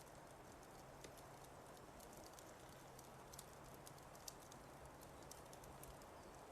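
Fireplace fire crackling faintly: scattered, irregular pops over a low, steady hiss.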